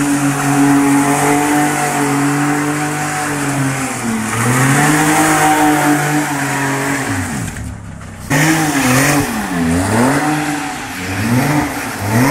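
Porsche 911 Turbo's flat-six engine under power while the car drifts on wet tarmac. The revs are held steady for a few seconds, then rise and fall. After a brief drop about eight seconds in, they swing up and down several times in quick succession as the throttle is worked.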